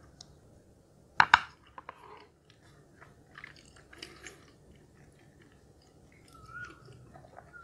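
Close-up chewing and mouth sounds of eating cheesy instant noodles, with two sharp clinks of a utensil against a glass dish about a second in.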